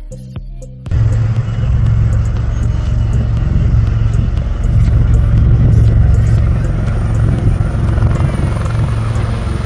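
Music stops abruptly about a second in, cut to the loud, steady low rumble of an aircraft, heavy in the bass and without clear beats.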